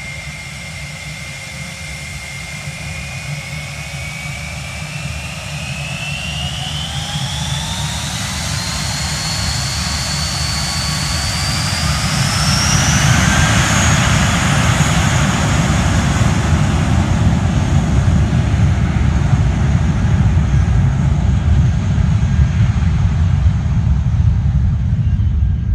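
Airliner engines spooling up: a whine climbs steadily in pitch over about ten seconds as a low rumble grows louder, then both hold steady at high power.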